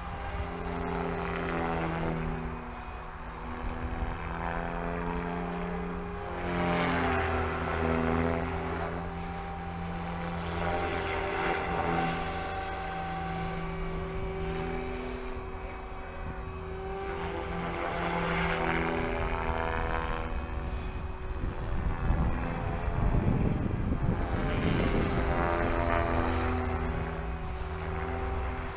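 Electric SAB Goblin 500 RC helicopter in flight. Its motor and rotor hum rises and falls in pitch again and again as it swings around and past.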